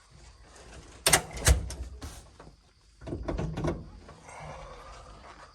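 Knocks and clatters in two bunches, about a second in and again about three seconds in, like a door or other hardware being handled.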